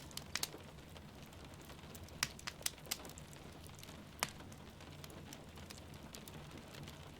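Wood fire crackling in a fireplace, with scattered sharp pops, a cluster of them a couple of seconds in and one loud pop about four seconds in, over a steady hiss of rain falling.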